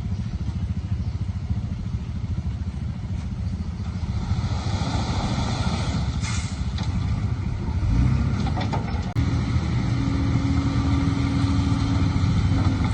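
Engine of a heavy earthmoving vehicle running steadily, with some clatter in the middle. About nine seconds in, the engine note shifts to a steadier, slightly louder tone.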